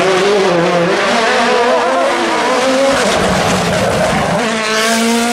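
Rally car engine at high revs, its pitch wavering up and down, then climbing steeply near the end as it accelerates hard.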